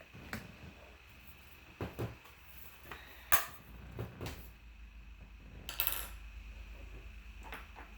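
Makeup tools and an eyeshadow palette being handled: a scattered series of light clicks and clinks of small hard objects, the loudest about three seconds in, with a short rattling clatter around six seconds.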